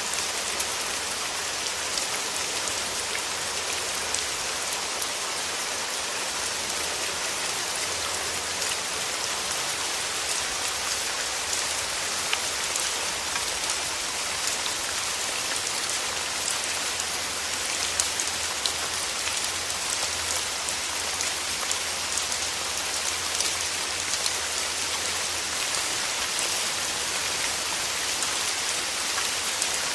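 Steady rain falling, an even hiss dotted with the small ticks of individual raindrops hitting a surface.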